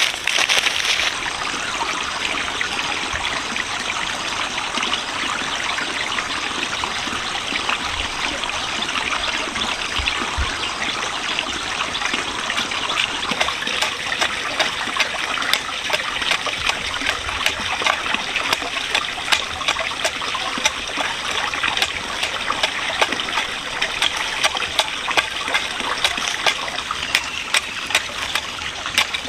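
Water running and trickling steadily, with many small sharp splashes or drips that come more often in the second half.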